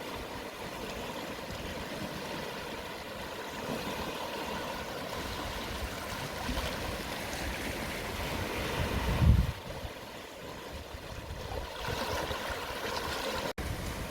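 Calm sea waves washing onto the shore at low tide, a steady hiss of surf that swells to a loud peak about nine seconds in, falls away, then builds again near the end.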